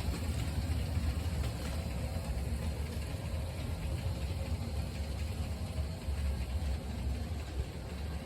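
Bachmann 36-ton Shay model locomotive running on its new diecast power trucks: a steady low rumble of motor, gearing and wheels on the track, with a faint steady whine.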